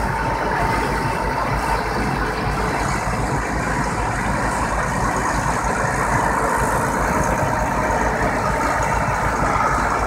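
Large articulated four-wheel-drive tractor's diesel engine running steadily, a heavy, even rumble.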